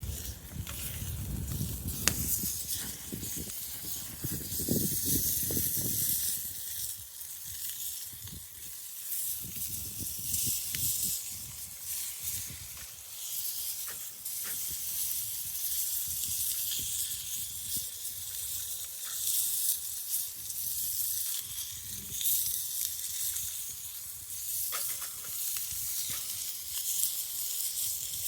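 Meat sizzling over a campfire: a steady frying hiss with scattered sharp pops and crackles, and a low rumble during the first few seconds.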